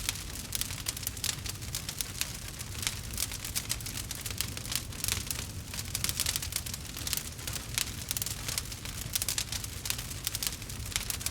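Campfire crackling: a dense, irregular run of small pops and snaps over a low, steady rumble of burning.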